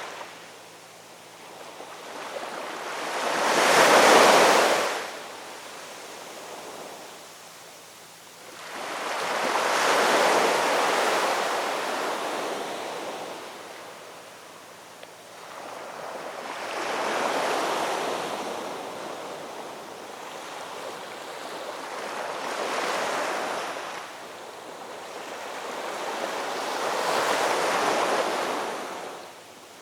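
Ocean waves breaking on a shore, five surges in steady succession, each swelling and washing back over a few seconds; the one about four seconds in is the loudest.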